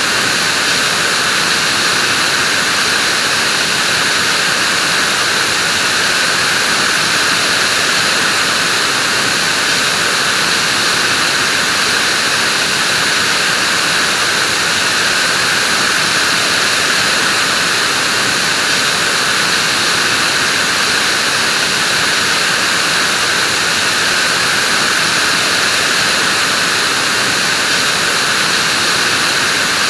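Vacuum cleaner running continuously, a loud, unchanging whooshing hiss with no pitch changes or interruptions.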